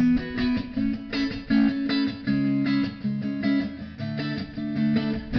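Guitar strumming a rhythmic chord pattern in an instrumental break between sung lines of a live pop song.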